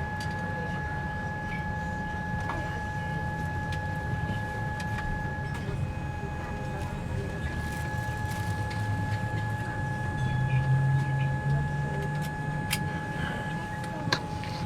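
Cabin noise in a Boeing 787 airliner on the ground after pushback: a steady low rumble from the engines and air system with a steady high whine, the rumble swelling for a couple of seconds about ten seconds in. A few light clicks, with a sharp one near the end.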